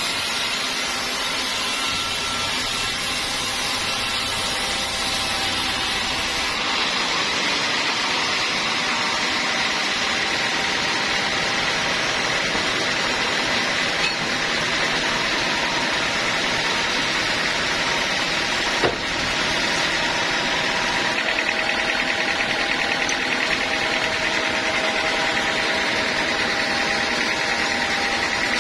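Sawmill machinery running steadily, a continuous mechanical noise with a high whine, with two brief knocks in the middle.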